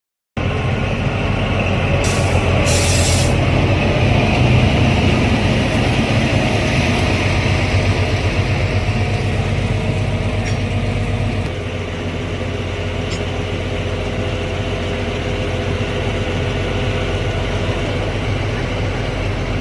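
Narrow-gauge toy train of the Kalka–Shimla Railway departing, a steady loud rumble of locomotive and wheels, with two short bursts of hiss about two and three seconds in.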